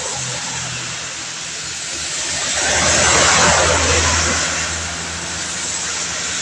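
A car passing on a wet road: tyre hiss and a low engine hum swell up to a peak about three seconds in and then fade, over the steady hiss of rain.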